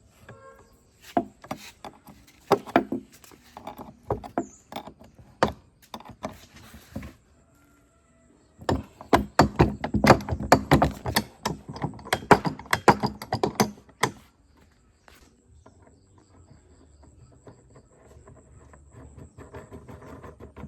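Irregular sharp knocks and taps from hands-on workshop work on the machine, in two busy spells with a short pause about seven seconds in, fading to a faint low background after about fourteen seconds.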